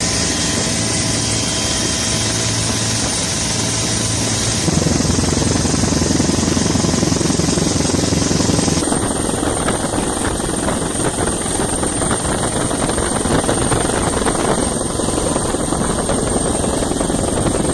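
Helicopter noise: a steady, loud rotor and engine din. Its tone changes abruptly about five seconds in and again about nine seconds in.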